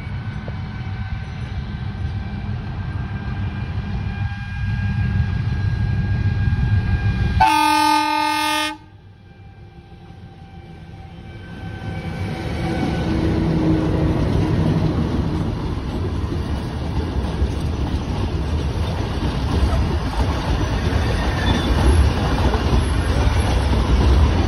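Ooty toy train's diesel locomotive running toward and past with a steady low engine rumble. It gives one horn blast of about a second, seven and a half seconds in. From about twelve seconds the rumble swells as the locomotive and its coaches roll close by on the rails.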